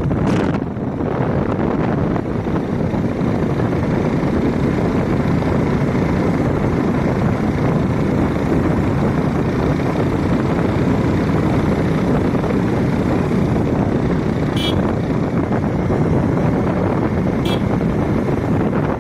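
Steady rushing noise of a motorcycle on the move: engine and wind noise blended together with no distinct engine note. Two short high chirps sound near the end.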